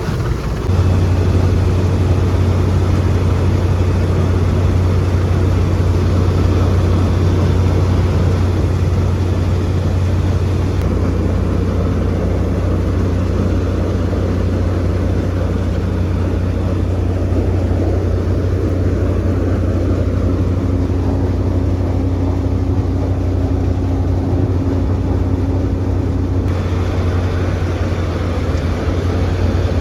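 Engine of a farm machine running steadily with a deep, even hum. A higher steady tone joins for several seconds past the middle.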